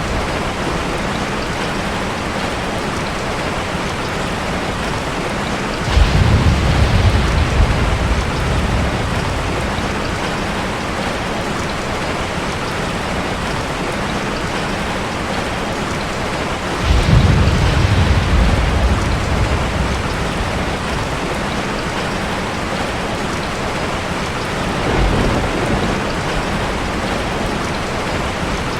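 Steady rain with three low rumbles of thunder, each starting suddenly and fading over two or three seconds: about six seconds in, again at about seventeen seconds, and a fainter one near the end.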